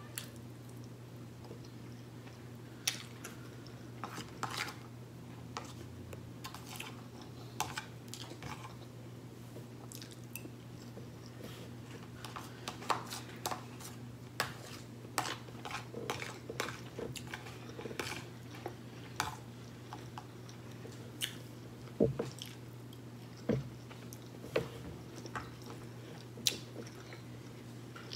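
Close-miked chewing and mouth sounds of a person eating smothered pork chop, rice and vegetables, with scattered light clicks and scrapes of a fork against the plate.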